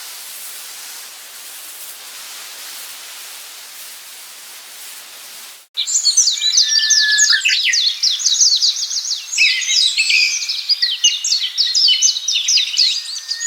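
A steady rushing noise, then an abrupt cut about six seconds in to songbirds singing, a dense run of fast high twittering notes that is much louder.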